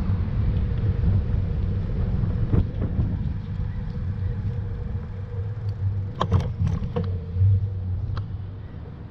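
Steady low rumble of wind and road noise on a camera carried on a moving bike, with a few sharp clicks or rattles about six to seven seconds in; the rumble eases near the end.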